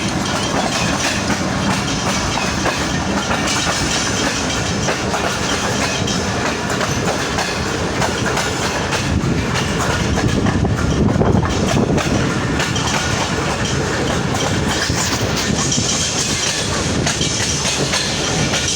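Passenger train's coaches rolling past at close range, a steady loud rumble of steel wheels on rail, a little louder about halfway through.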